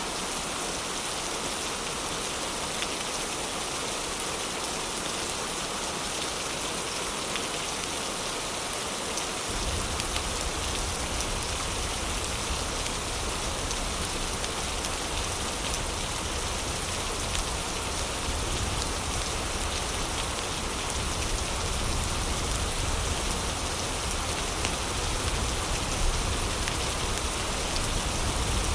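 Heavy rain falling steadily, a dense even hiss. About ten seconds in, a deep low rumble joins it abruptly and stays.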